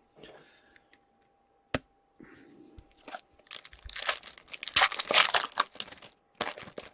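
Crinkling and rustling of a hockey card pack's foil wrapper being handled, loudest in the back half, with a single sharp click a little under two seconds in.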